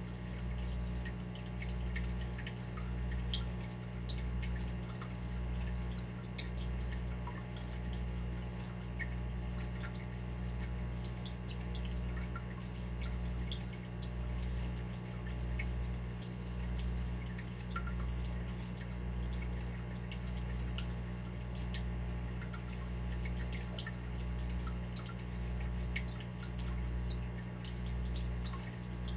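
Water dripping: many small, irregular drips. Under them runs a low hum that swells and fades about once a second.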